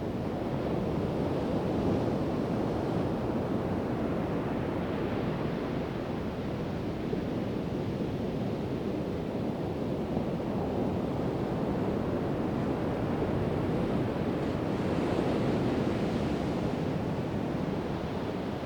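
Pacific Ocean surf breaking and washing on the beach, a steady rush that swells and eases slowly, louder around two seconds in and again near the end, with some wind on the microphone.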